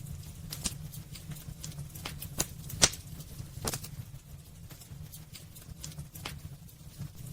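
Wood burning in a fireplace, crackling with irregular sharp pops, the loudest about three seconds in, over a steady low rumble.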